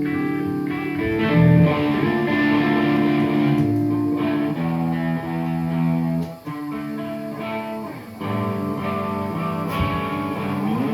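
Guitar playing held chords and ringing notes that change every second or so, without drums, with a short upward pitch slide near the end.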